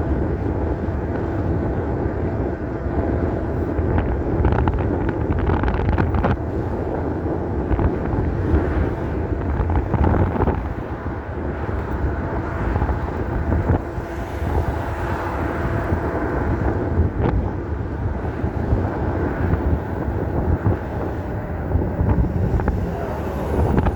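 Wind rumbling and buffeting on the microphone of a rider on an electric bike moving at speed, with a faint steady whine underneath.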